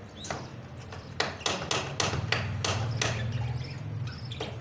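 A quick run of about nine sharp knocks or strikes, like hammering or chopping, with two more near the end, over a low steady hum.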